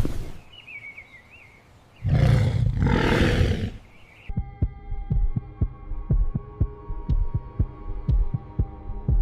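A loud, rough roar-like burst lasting under two seconds, then, from about four seconds in, a steady hum under a pulsing, heartbeat-like low thumping of about three beats a second: a suspense sound effect.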